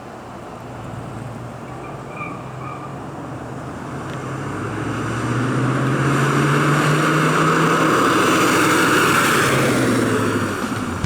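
1965 Chevrolet El Camino's 327 V8 running as the car drives past, growing louder over several seconds and then falling away near the end.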